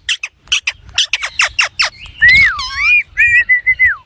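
Pet green parrot calling: a quick run of about a dozen short, sharp chirps, then a clear whistle that swoops down and back up and holds a steady note in short pieces before dropping at the end.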